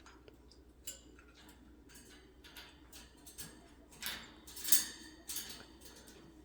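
Scattered light clicks and metal clinks, the loudest about two-thirds of the way through: an African grey parrot's beak and claws on the cage bars and perches as she climbs.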